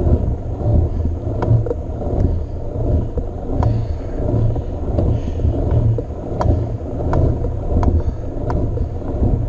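Steady low rumble of a Trek Marlin 7 hardtail mountain bike riding along a path, tyre and wind noise on the small action camera's microphone, with sharp irregular clicks and rattles from the bike about once a second.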